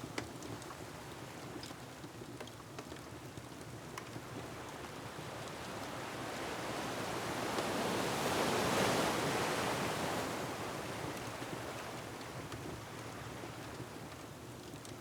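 Ocean waves surging against a shore: a rushing wash builds to a peak about halfway through and ebbs away again. A few sharp crackles from a wood fire sound through it.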